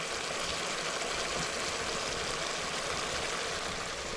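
Turkey meat frying in spiced oil in a hot wok, a steady sizzling hiss.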